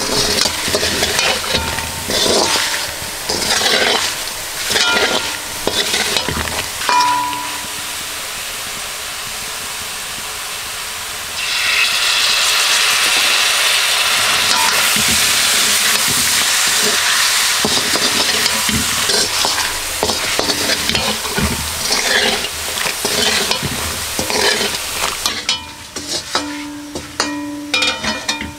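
Ladle stirring and scraping spiced chicken pieces in a hot iron wok, in repeated strokes over a frying sizzle. About eleven seconds in, the sizzle swells into a loud steady hiss lasting about fourteen seconds, and then the stirring strokes return.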